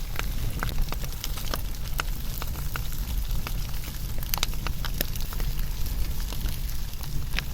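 Wood fire burning and crackling, with sharp pops and snaps at irregular moments over a steady low rumble of the flames.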